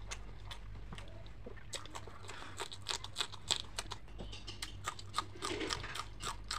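Close-miked chewing of fried fish and raw green chilli: a quick, irregular run of crisp crunches and wet mouth clicks that grows denser after the first couple of seconds.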